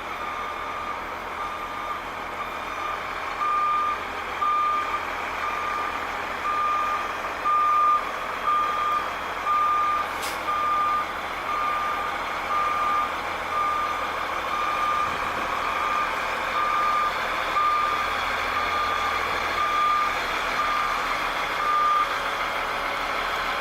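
Backup alarm on a 2003 Freightliner FL80 beverage truck beeping about once a second as the truck reverses, with the truck's engine running underneath. The beeps grow louder a few seconds in and stop near the end.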